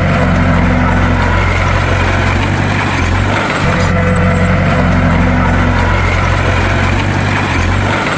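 Bulldozer's diesel engine running steadily, with a continuous low engine note that dips briefly a few seconds in.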